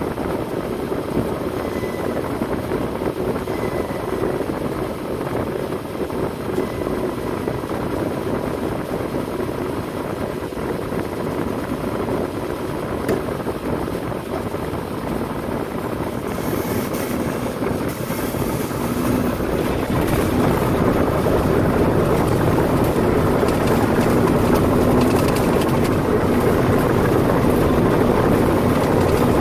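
Heavy machinery engine running steadily, growing louder about two-thirds of the way through, with a hiss added somewhat earlier.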